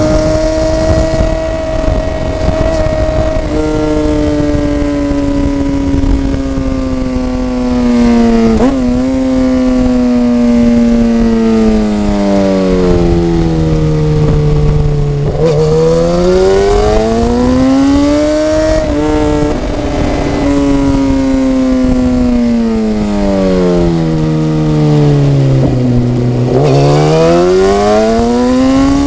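Motorcycle engine under way: its note falls slowly as the bike slows, with short sharp throttle blips on the downshifts, then climbs as it accelerates again. This slow-down and pull-away happens twice.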